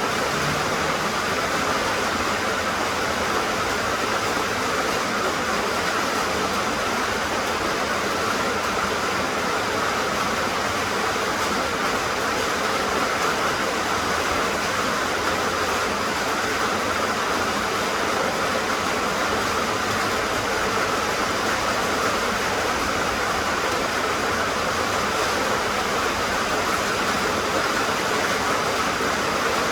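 Steady rain falling: an even hiss that holds constant throughout, with no separate drops or gaps standing out.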